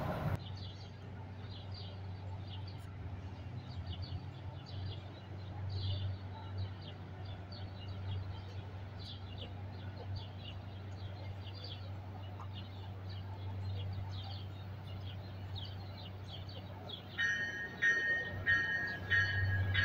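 Small birds chirping again and again over a steady low hum. Near the end a high, ringing tone starts, pulsing on and off.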